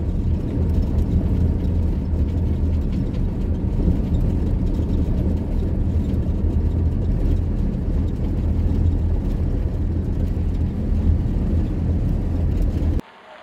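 Steady low rumble of a vehicle driving, road and engine noise. It cuts off abruptly just before the end.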